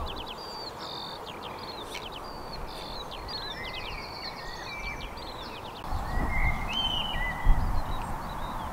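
Several songbirds chirping and whistling in quick short phrases over a steady outdoor hiss. About six seconds in, a low rumble joins in and the overall level rises.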